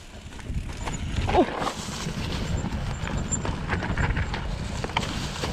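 Mountain bike rolling down a dirt trail: a steady rumble of tyres with the bike rattling and knocking over bumps, and one short falling cry or squeak about a second and a half in.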